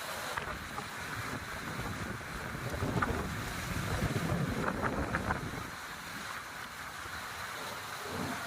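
Sea wind blowing on the microphone over the wash of surf, swelling louder from about three to five and a half seconds in.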